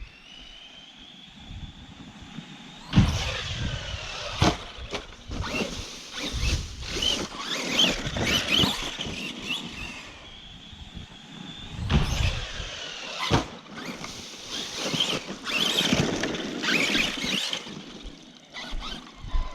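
Arrma Kraton 4S RC truck's brushless electric motor whining, rising and falling in pitch as it speeds up and slows, with tyres churning over rough ground. Several hard knocks from bumps and landings, the loudest about three seconds in.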